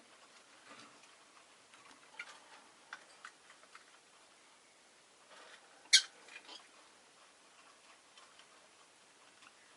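Rosy-faced lovebird giving one short, sharp chirp about six seconds in, with a couple of fainter chirps just after, over scattered small clicks and taps.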